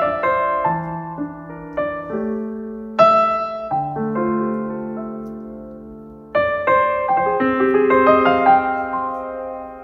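Gentle solo piano music. Chords are struck about three seconds in and again a little after six seconds, each left to fade, with single melody notes between them.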